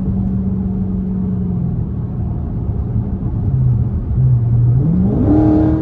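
Straight-piped 392 HEMI V8 of a Dodge Charger Scat Pack under way. The exhaust note holds steady, eases to a lower pitch partway through, then rises sharply about five seconds in as the car accelerates.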